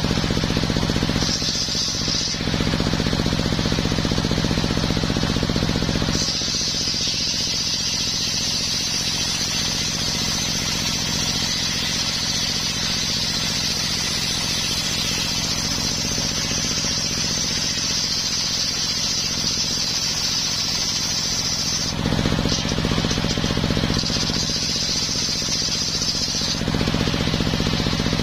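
Homemade engine-driven circular sawmill sawing coconut wood: the engine runs steadily, and the blade's high whine as it cuts through the log comes in briefly about a second in, then for a long cut of about sixteen seconds, and again near the end for a couple of seconds. During the cuts the engine's low hum sinks under the load.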